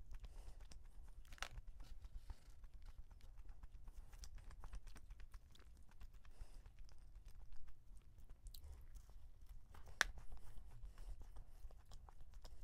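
Close-miked chewing of a soft glazed yeast donut with a crumbly topping: soft mouth sounds with many small clicks, and one sharper sound about ten seconds in, as a fresh bite is taken.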